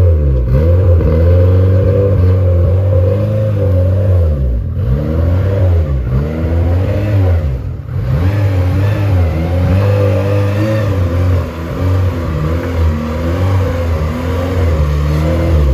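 A motor running steadily with a deep hum, its overtones sweeping up and down, dipping briefly a few times.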